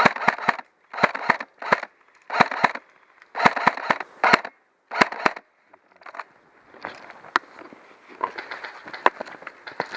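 Airsoft guns firing: a run of sharp snaps in short bursts, dense through the first five seconds and sparser after.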